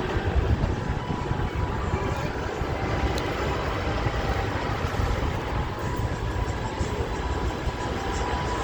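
Outdoor city ambience: a steady low rumble with an even background hiss and no distinct events.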